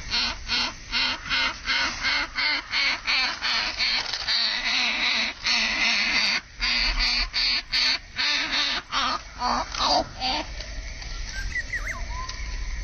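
Greater coucal nestlings giving harsh, rasping begging calls in a rapid rhythm of about three a second, stopping about ten seconds in.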